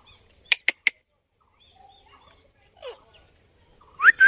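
Pet parrot calling: three quick, sharp chirps about half a second in, a faint short call near three seconds, then a loud rising whistled screech starting near the end.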